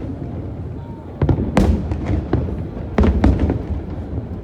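Aerial fireworks shells bursting in a series of sharp bangs with a rolling rumble between them. The loudest bang comes about one and a half seconds in, and two more follow close together about three seconds in.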